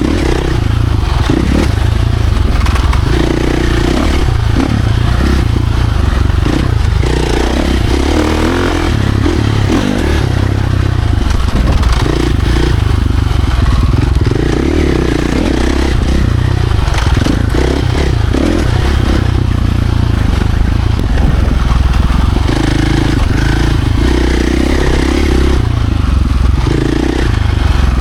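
Dirt bike engine running hard on an off-road trail, throttle rising and easing off again and again, loud and without a break.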